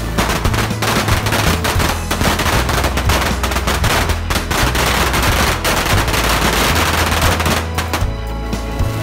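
Massed rocket fireworks (bottle rockets) going off in a dense, rapid, crackling volley like machine-gun fire, thinning out about eight seconds in, with background music underneath.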